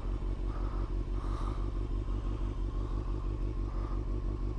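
Motorcycle engine running at low revs with an even, steady pulse while the bike rolls slowly.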